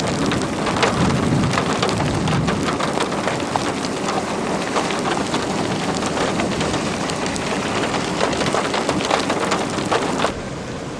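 Heavy rain falling, with many sharp drop hits, and a low rumble of thunder in the first couple of seconds; the rain noise drops suddenly in level near the end.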